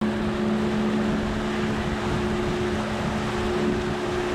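Boat motor running at a steady pitch, with wind on the microphone.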